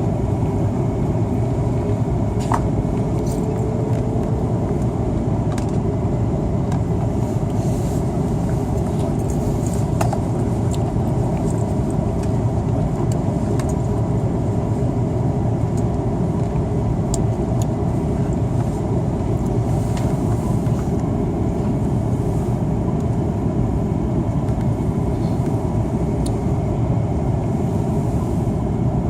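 Steady cabin noise of an Airbus A330-300 in flight: an even rush of airflow and engine drone, heaviest in the low end, with a few faint clicks.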